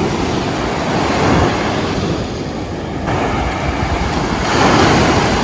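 Ocean surf washing ashore, with wind buffeting the microphone; a wave swells loudest near the end.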